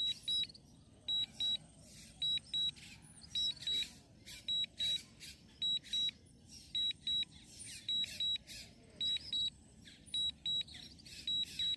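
DJI drone remote controller sounding its low-battery warning: short high beeps in pairs, about once a second, as the drone's battery nears critical level.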